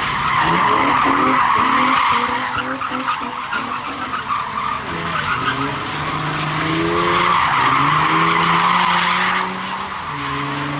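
Car tyres screeching as a car spins them at a car meet, over its engine revving up and down. The screech eases a few seconds in, comes back strongly, then cuts off suddenly near the end.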